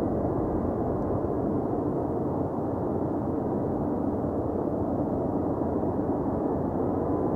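Jet engines of a Singapore Airlines Airbus A330-300, a steady rumble with a faint tone held near the middle of the sound.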